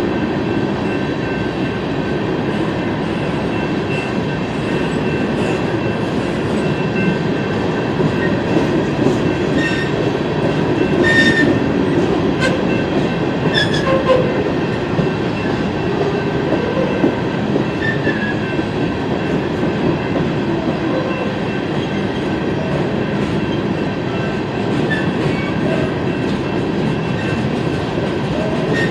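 Freight train cars rolling past on the rails: a steady, even rumble of wheels on track with scattered clicks of wheels over rail joints, and a faint high, steady squeal from the wheels.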